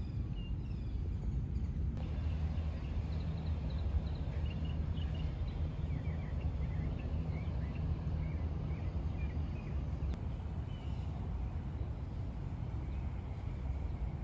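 Outdoor ambience: small birds chirping in short, repeated calls over a low, steady rumble.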